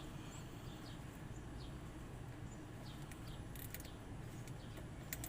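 Faint bird chirps, short high notes sliding down, repeating every second or so over a steady low background rumble, with a few light clicks.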